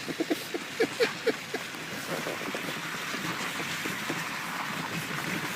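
A vehicle moving slowly over wet, muddy ground: a steady hiss of tyres and water, with a few short squeaks in the first second and a half.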